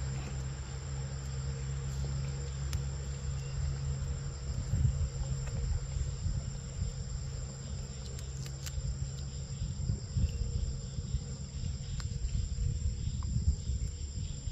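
Insects chirring steadily in a continuous high-pitched drone, over a steady low rumble and a few faint clicks.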